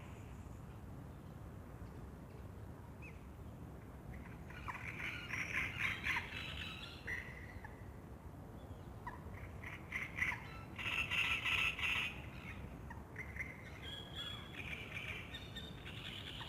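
Wild birds singing at dawn in several bursts of chirping calls, over a steady low background hum.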